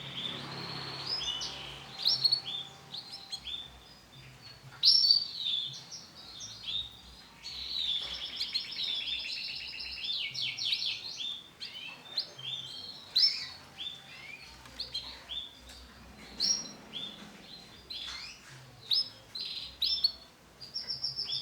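Male domestic canary singing a long varied song of chirps, sweeping notes and fast trills of rapidly repeated notes.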